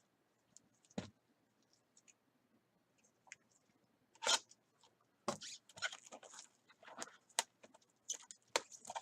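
Trading-card packaging handled on a table: a single knock about a second in, then quick crinkling and clicking of card wrappers and packs from about halfway through.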